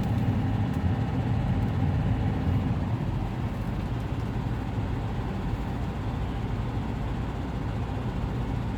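Strong gusting wind buffeting a parked semi truck's cab, heard from inside as a steady low rumble that eases a little after a few seconds.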